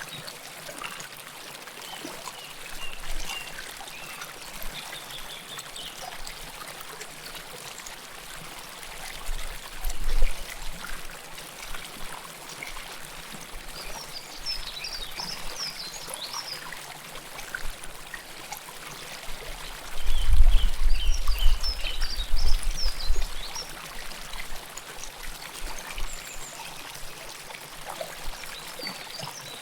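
River water flowing close to the microphone, a steady rushing and trickling. A few short, high bird chirps come and go, and a low rumble rises briefly about ten seconds in and again for a few seconds past the two-thirds mark.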